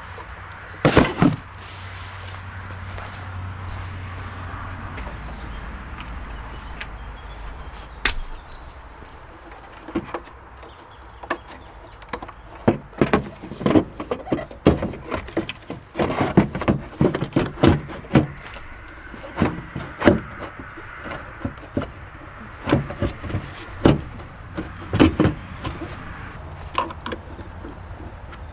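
Irregular clicks and sharp knocks of tools and car parts being handled during hands-on work on a car. A low steady hum sits under the first five seconds or so.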